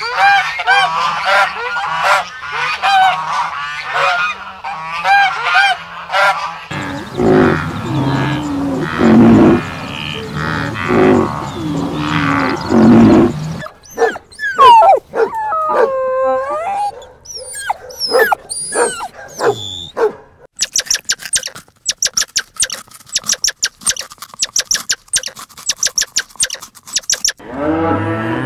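A run of different animal calls: Canada geese honking in repeated calls for the first several seconds, then other calls including gliding whistle-like cries and fast high chirping, and a cow starting to moo near the end.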